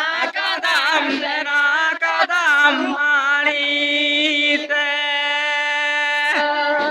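Voices chanting in unison with held, wavering notes, then one long steady note in the second half that drops away sharply near the end.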